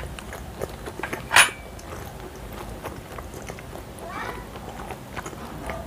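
Close-miked mouth sounds of chewing momos and noodles: wet smacks and clicks, with one louder noisy burst about a second and a half in. A brief high, gliding squeak-like call comes about four seconds in.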